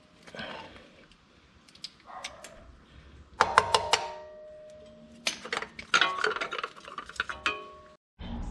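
Metal tools and parts clinking and clattering, in several bursts of sharp clanks, some ringing briefly, the loudest a little over three seconds in and again from about five seconds on.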